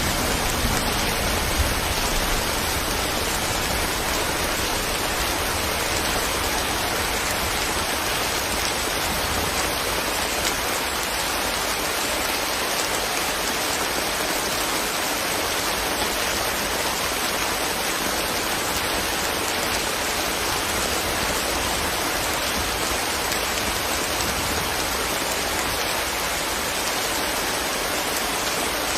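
Steady rain falling, an even, unbroken hiss of raindrops pattering on leaves.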